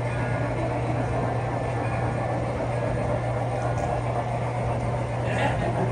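MTH model train running steadily on its layout track, a continuous low hum with even rumbling.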